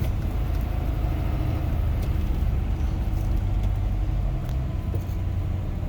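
Box truck's engine and tyre noise heard from inside the cab while driving: a steady low rumble.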